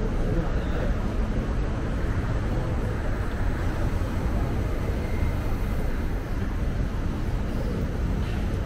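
Steady low rumble and hum of an East Rail line electric train standing at a station platform, under the general noise of the platform.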